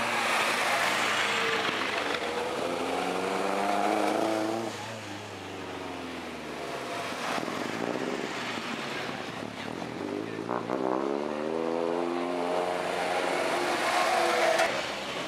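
Engines of classic sports cars pulling away one after another. Each one revs up, rising in pitch, then drops away.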